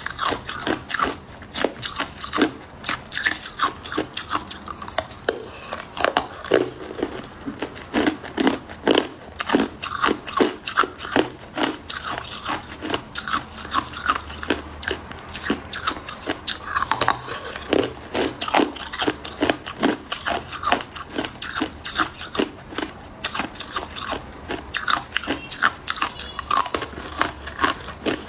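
Hard ice cubes being bitten and chewed close to the microphone: rapid, sharp crunches several times a second.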